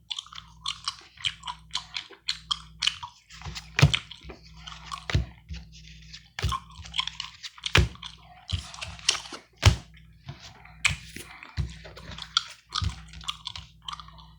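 Chewing gum close to the microphone: a steady run of wet clicks and smacks, broken by a few sharper snaps or taps, over a faint low hum.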